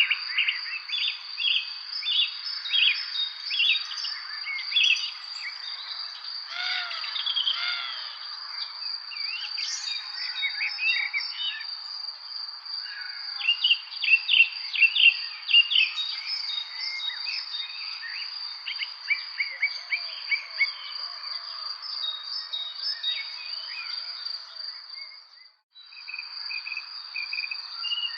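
Songbirds chirping and singing in quick runs of short notes, busiest about halfway through, over a continuous high, steady insect trill. The sound drops out briefly near the end, then resumes.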